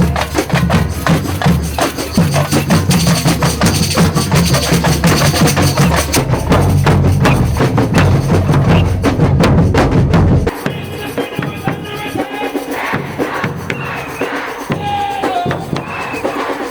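Drums and percussion playing a fast, dense rhythm over a heavy low beat. About ten seconds in the low beat stops, and lighter percussion carries on with a few pitched tones.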